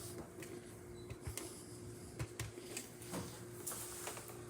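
Light, scattered clicks and knocks of the Rancilio Silvia espresso machine's panel being handled, over a faint steady hum.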